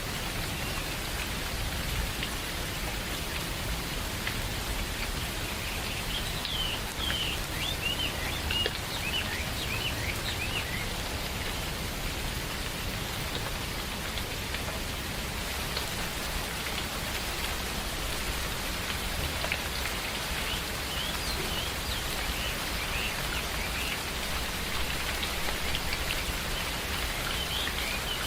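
Steady rain falling in a forest. A run of short bird chirps comes about six seconds in, and another starts about twenty seconds in and continues to the end.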